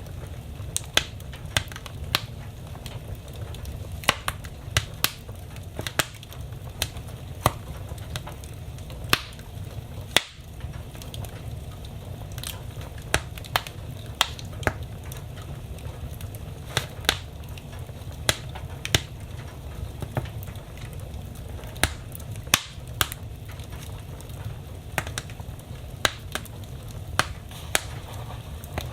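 Fire in a fireplace crackling, with irregular sharp pops, a few of them much louder, over a steady low rumble of the flames.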